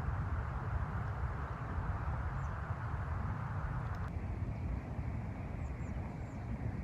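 Wind rumbling on the microphone over a steady rushing noise, with faint high bird chirps now and then; the rushing cuts off suddenly about four seconds in.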